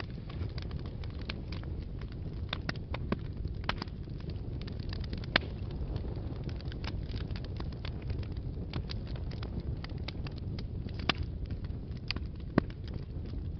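Wood fire burning in a fireplace: a steady low rumble of flames with frequent sharp crackles and pops, two louder pops about five seconds in and near the end.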